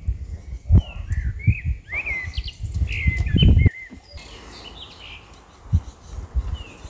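Garden birds chirping in short rising and falling notes, mostly in the first half, over a low rumbling noise that cuts off abruptly just before four seconds in.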